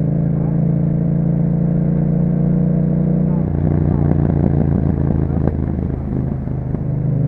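A 2021 Yamaha MT-07's parallel-twin engine running through an Akrapovic exhaust, holding a steady pitch while riding. About three and a half seconds in the pitch drops and the sound turns uneven, and near the end it settles back to a steady, higher pitch.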